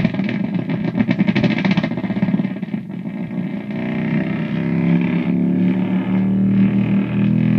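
Guitar effects pedals (Rupture 2, Schizodelay and EarthQuaker Devices Rainbow Machine) self-oscillating in a feedback loop, making loud noise. It flutters rapidly for the first two seconds, dips briefly near three seconds, then settles into steadier low warbling tones as the Rainbow Machine's tracking is adjusted.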